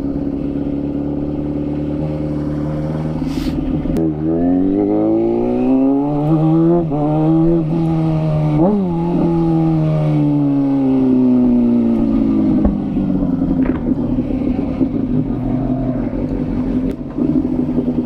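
Kawasaki ZX-6R's inline-four engine running at low revs, then revving up through a couple of gear changes from about four seconds in, with a sharp peak near the middle. The revs then fall away steadily as the bike slows and rolls on at low speed.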